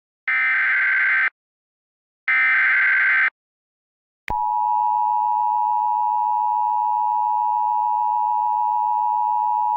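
Emergency Alert System broadcast tones: two one-second bursts of screechy data-header signal, then a click about four seconds in and the steady, harsh two-tone attention signal, which holds without a break. This is the alarm that announces a flash flood warning.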